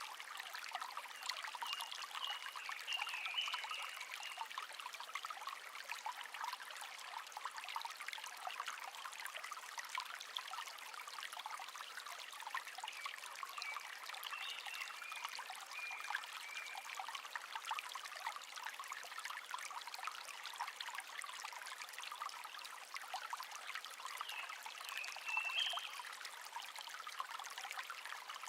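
A small stream babbling and trickling steadily over stones. A songbird sings three short warbling phrases over it: about two seconds in, midway through, and near the end.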